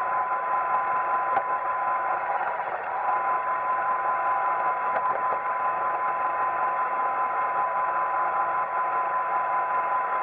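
Roomba 880 robot vacuum running: a steady motor whine over an even hiss, with a couple of faint clicks.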